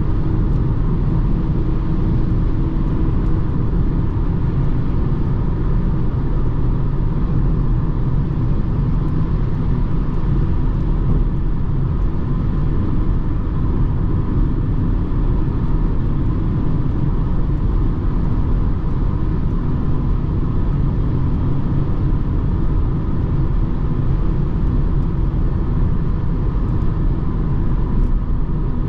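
BMW 220d xDrive Gran Coupe driving at a steady pace: an even low rumble of engine and road noise with no changes.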